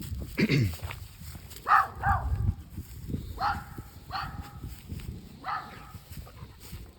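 A dog giving a series of short, high-pitched calls, about six of them roughly a second apart.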